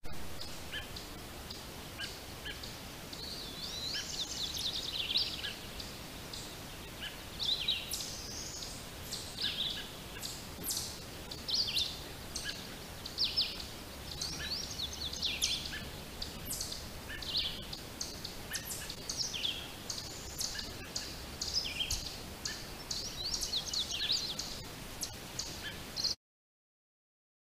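Several songbirds singing and calling, many short chirps, trills and whistled phrases overlapping, over a faint steady hiss; it cuts off suddenly near the end.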